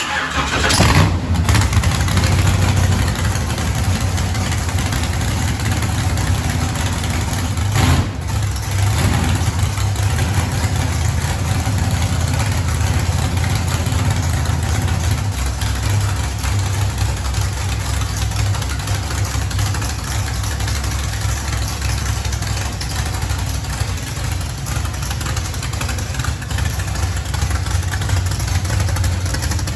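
A vehicle engine catches and settles into a steady, loud idle with a deep low rumble, after it had been refusing to start because of a faulty starter.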